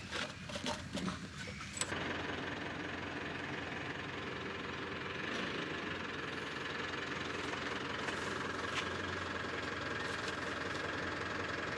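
A few sharp clicks and knocks, then a car engine comes on about two seconds in and idles steadily.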